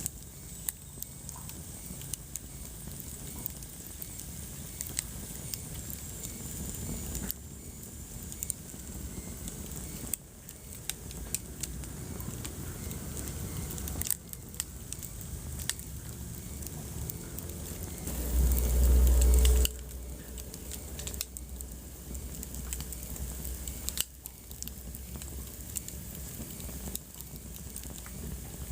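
Wood fire crackling in a fireplace: scattered sharp pops and crackles over a low flame rumble. About two-thirds of the way in, a deep rumble swells for a second or two, the loudest moment.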